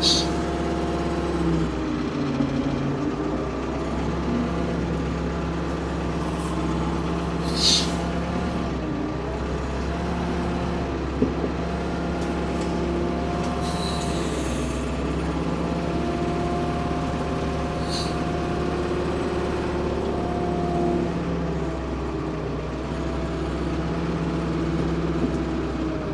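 Ford P-42 excavator's engine running under load as the machine is manoeuvred and its hydraulics are worked, the engine note dipping and rising. Short high squeals come through a few times, about 8, 14 and 18 seconds in.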